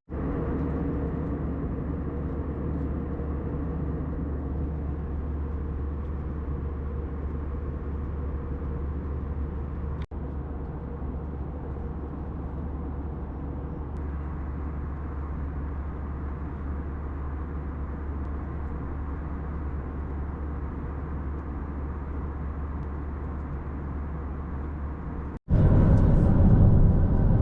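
Steady low rumble of a moving vehicle, heard from inside. It breaks off for an instant about ten seconds in, and comes back louder near the end.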